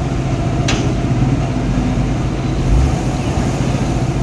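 A heavy vehicle's engine running steadily with a low, even hum. There is one sharp click about a second in.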